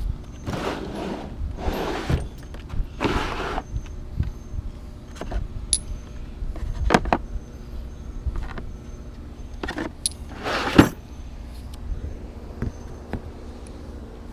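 Socket wrench and metal hand tools clinking and rasping on bolts: three short bouts of scraping early on, then scattered sharp metal clinks, the loudest about eleven seconds in.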